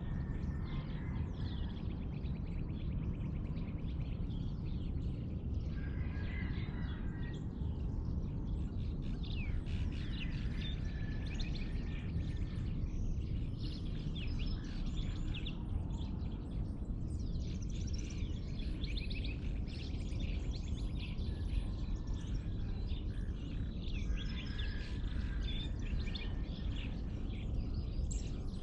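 Many birds chirping and calling together in a dawn chorus, with quick trills and short notes overlapping throughout, over a steady low rumble.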